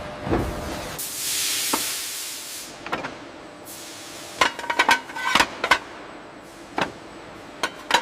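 A hiss lasting about a second and a half, then a quick run of sharp knocks with a short ring, and a couple of single knocks near the end: metal being worked on a factory floor.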